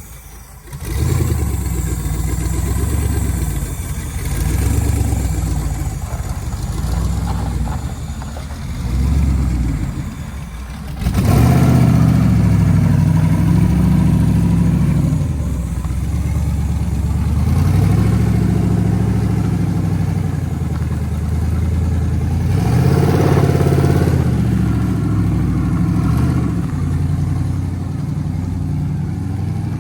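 Twin-turbo engine of a 1981 Chevrolet Malibu running, its revs rising and falling repeatedly, with a sudden jump in level about eleven seconds in.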